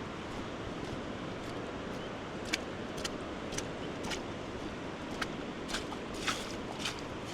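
Steady rush of a fast-flowing flooded river, with footsteps on the wet path starting a couple of seconds in, about two steps a second.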